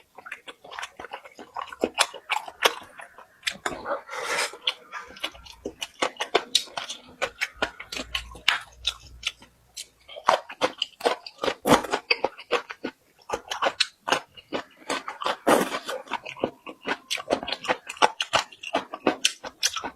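A person chewing food close to the microphone, with many quick, irregular wet mouth clicks and occasional crunches.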